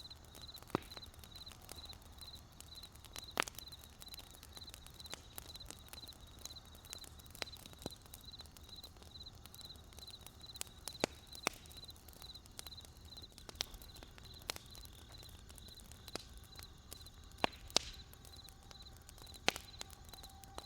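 Crickets chirping in a steady, evenly pulsed high trill, over a wood campfire crackling with scattered sharp pops, the loudest pops about three seconds in and near the end.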